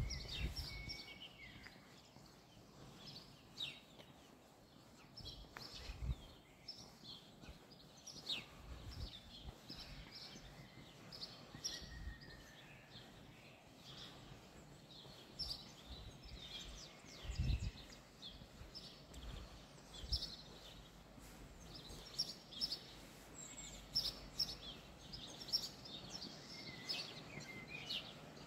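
Songbirds chirping and twittering, many short high calls scattered through, over a faint outdoor hiss. A few dull low thumps, the loudest about two-thirds of the way in.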